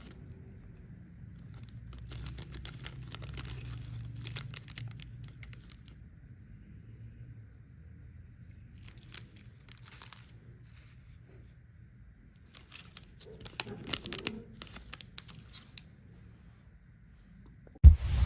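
Plastic candy wrappers crinkling and tearing in short crackly bursts, with a sudden loud low thump near the end.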